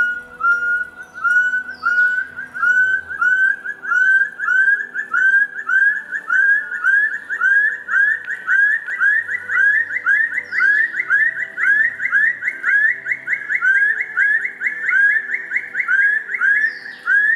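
Rufous-throated partridge song: a long series of short, rising whistled notes that gradually speed up and climb slightly in pitch.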